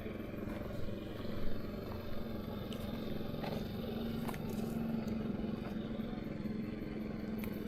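An engine running steadily with a level, low hum, and a few faint ticks over it.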